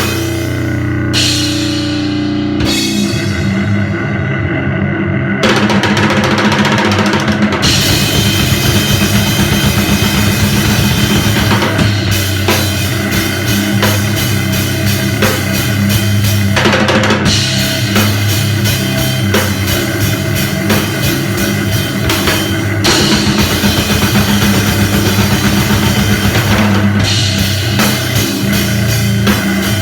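Live powerviolence/grindnoise band playing loud and fast: a pounding drum kit with bass drum and cymbals over a wall of heavy, sustained low notes. The playing thickens about five seconds in.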